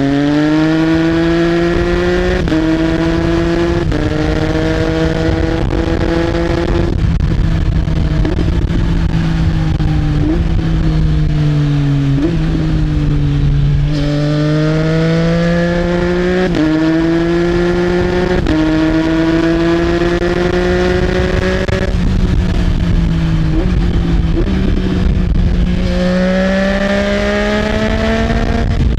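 Triumph Trident 660's inline three-cylinder engine through an Arrow exhaust, pulling hard through quick, clutchless quickshifter upshifts where the pitch steps down and climbs again. Twice it rolls off into a falling note with short throttle blips on the downshifts, then accelerates and shifts up again, over steady wind rush.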